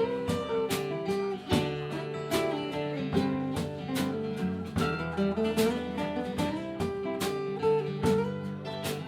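Live country band playing an instrumental break: guitar to the fore over a strummed rhythm, with a steady beat.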